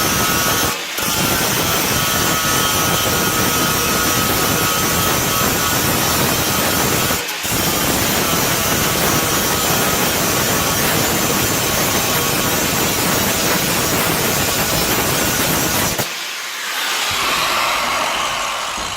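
Angle grinder working steel car bodywork: a loud, continuous grinding with a faint high whine, easing off briefly twice and stopping about three seconds before the end.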